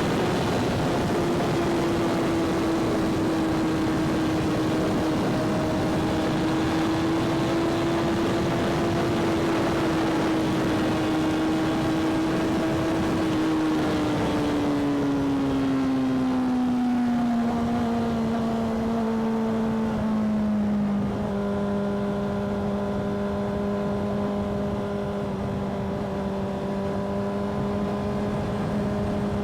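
Motorcycle engine running at a steady pitch under wind rush while riding, then dropping in pitch over several seconds as the bike slows, and settling at a lower, steady note.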